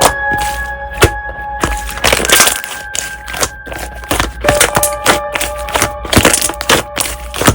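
Slime being pressed, poked and squeezed, giving many irregular sharp clicks and crackles, over soft background music with held notes.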